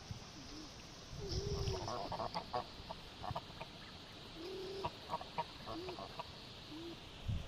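Geese and ducks calling softly at close range: short low honks scattered through the clip, mixed with bursts of quick chattering calls.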